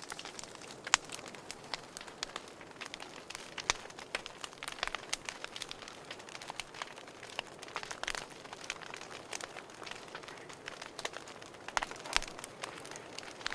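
Wood fire burning in a fireplace, crackling and popping at irregular intervals over a faint steady hiss, with a few louder pops.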